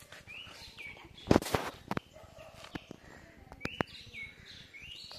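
Birds chirping: short calls that rise and then drop, repeated several times. About a second and a half in there is a brief loud clatter of knocks, followed by a few single sharp clicks.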